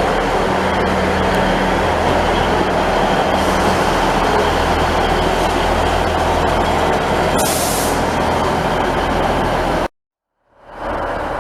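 Train running at close range: a loud, steady rumble with a low, steady hum under it, and a brief hiss about seven and a half seconds in. The sound cuts out abruptly near the end and fades back in.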